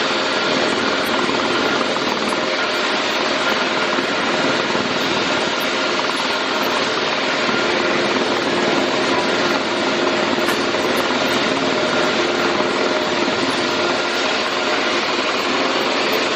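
Helicopter running steadily: a loud, even rush of turbine and rotor noise with a few faint steady whine tones, unchanging throughout.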